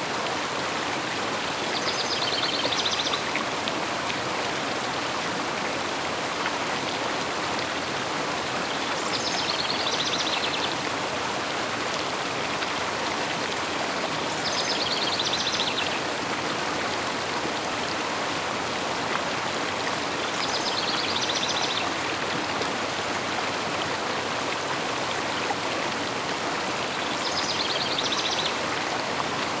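River water flowing steadily, with a bird singing a short high phrase that repeats about every six seconds, five times over.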